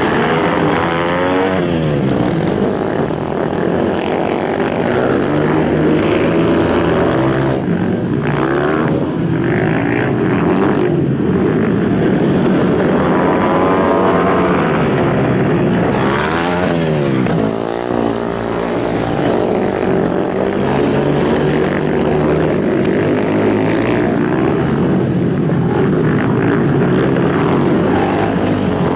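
Racing motorcycle engines running hard at high revs, the pitch swooping down and back up several times.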